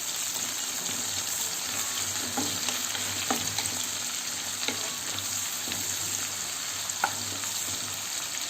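Onion and green chillies frying in hot oil in a pan: a steady sizzling hiss. A spoon stirring them clicks against the pan about five times.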